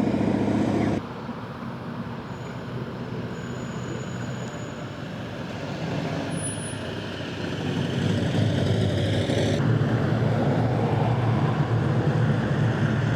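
Car engines and exhaust as cars drive in, in short clips cut together: a loud engine stops abruptly about a second in, quieter traffic noise follows, then a low engine note grows louder from about eight seconds on and stays loud.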